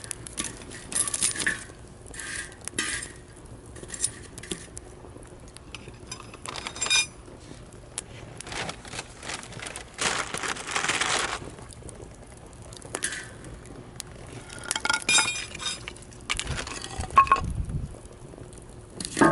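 Wood campfire crackling and popping in irregular sharp snaps, with a longer hissing rush about ten seconds in.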